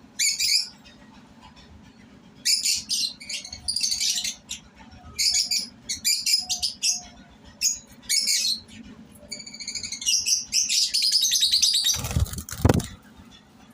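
Peach-faced lovebirds chirping in repeated bursts of shrill, rapid chirps with short pauses between them, over a steady low hum. Near the end comes a short, loud burst of rustling and clicks with low thumps.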